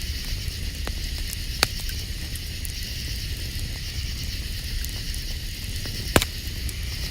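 Campfire crackling, with small ticks throughout and two sharp pops, over a steady high chorus of night insects.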